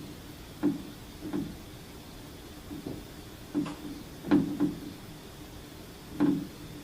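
Irregular rattling knocks of unknown origin, about eight spread unevenly over several seconds, a few coming in quick pairs. A faint steady hum runs underneath.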